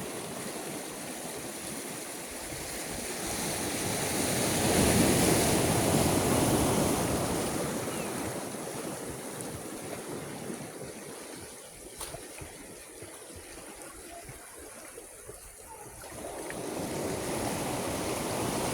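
Sea waves washing ashore. A wave builds and breaks about five seconds in, then drains away, and another swells up near the end.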